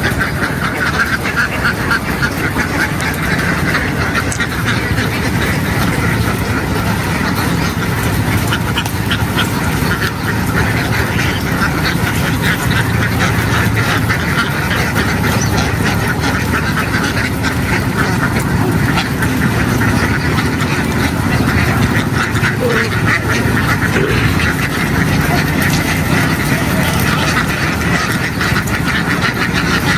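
A large flock of domestic ducks quacking continuously, many calls overlapping in a dense chatter, over a low steady rumble.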